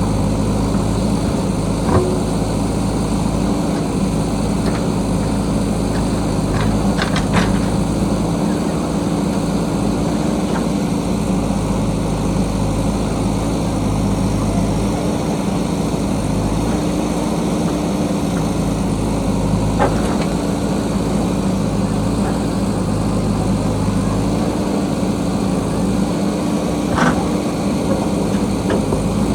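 JCB backhoe loader's diesel engine running steadily while it digs, its note shifting slightly with load. A few sharp knocks break in at intervals.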